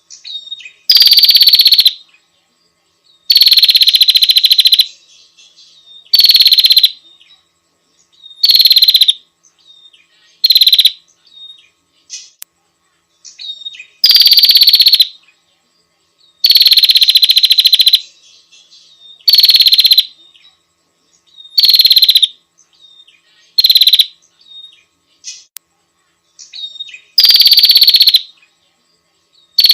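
Female prinia (prenjak) giving its buzzy, rasping call to attract a male, repeated in about eleven loud bursts of half a second to a second and a half, each at a high pitch, with faint short chips between them.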